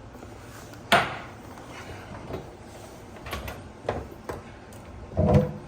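Scattered clicks and knocks from hands working inside a sink cabinet while the water lines are being tied together: one sharp click about a second in, a few lighter clicks midway, and a duller knock against the cabinet near the end.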